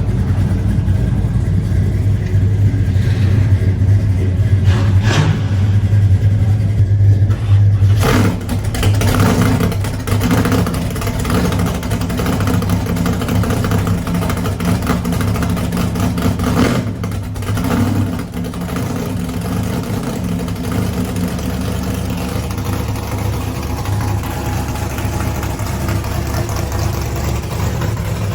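Car engine running with a steady low rumble whose pitch and load shift a couple of times, with a few sharp knocks along the way.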